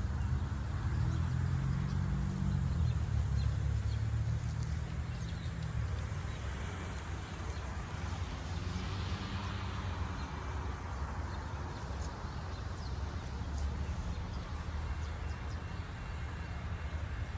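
Diesel switcher locomotive engine running with a low, steady rumble, swelling for the first few seconds and then settling.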